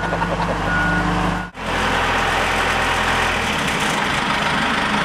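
Motor cruiser's inboard engine running steadily, with a rushing hiss over it. The sound drops out briefly about a second and a half in.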